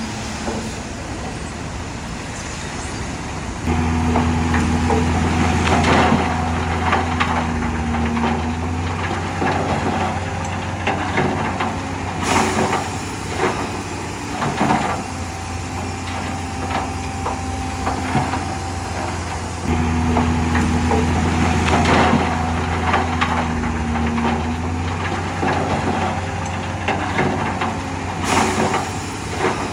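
Diesel engine of heavy earthmoving machinery running and pulling harder twice, about 4 and 20 seconds in, then easing back each time. Repeated metal clanks and knocks run through it, with two sharp cracks, about 12 and 28 seconds in.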